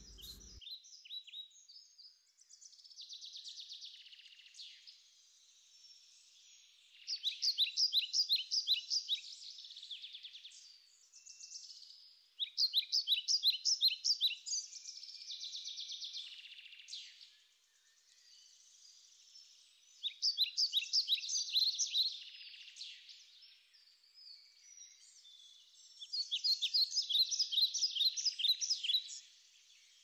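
Songbird singing: four loud trilled phrases of fast, evenly repeated high notes, each two to three seconds long, with fainter chirping and warbling between them.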